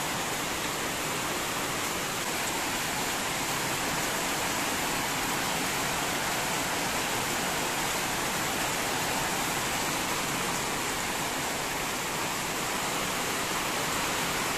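Heavy rain pouring down steadily, an even rushing sound with no letup.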